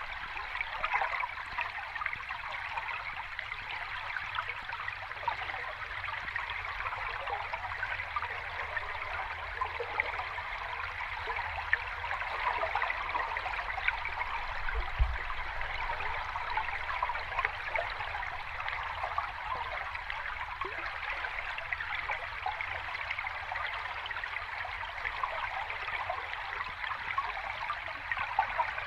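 Sea water washing and lapping gently at the shore, a steady fizzing wash with no distinct breaking waves.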